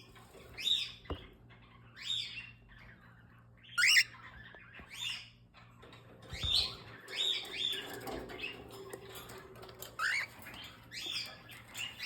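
Cockatiels chirping: a string of short, downward-sweeping calls, about one every second, with brief pauses between them.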